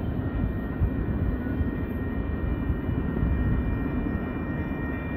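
Steady low rumble of a double-stack container freight train's wheels rolling away over the rails, with a faint thin high whine held throughout.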